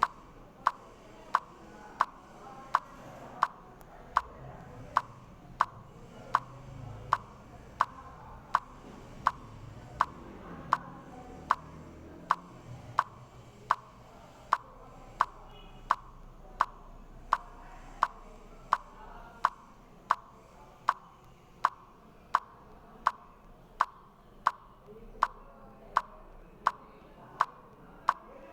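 A sharp, regular tick repeating steadily about every 0.7 seconds, over a faint low background hum.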